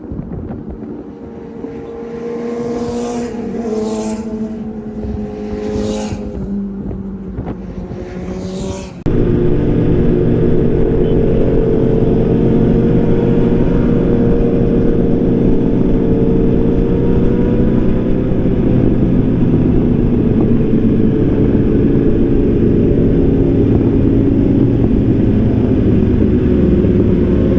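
Superbike engines running: for the first nine seconds an engine drone with a few short rev blips, then an abrupt jump to a louder, steady engine drone.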